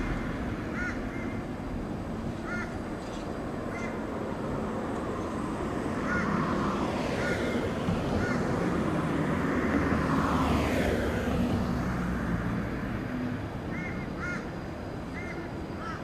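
Short bird calls repeating every second or two, over a steady outdoor rumble that swells for several seconds in the middle and then fades.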